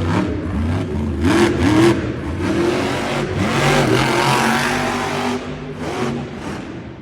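Grave Digger monster truck's supercharged methanol V8 revving hard in repeated rising and falling bursts during a freestyle run, with a broad rush of noise in the middle.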